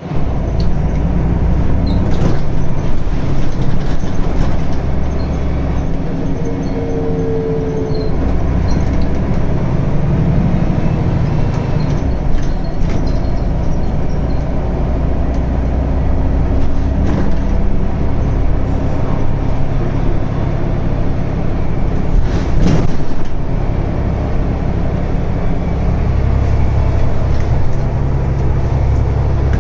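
Scania N94UD double-decker bus's diesel engine running under way, its note rising and falling as the bus pulls and changes speed, with a short falling squeal about seven seconds in.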